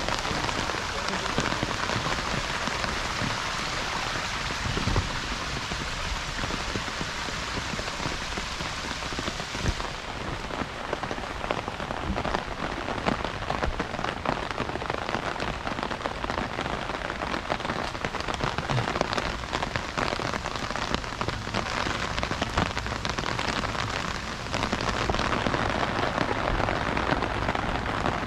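Steady rain falling, with many individual drops ticking close by. The character of the rain changes abruptly about ten seconds in and again near the end.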